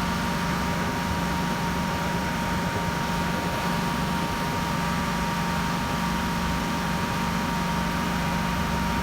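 Small petrol engine of lawn-care equipment running steadily at high speed, with a steady hum and a thin high whine.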